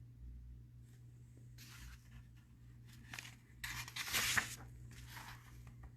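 Paper rustling in a few short bursts, the loudest about four seconds in, as the pages of a picture book are handled.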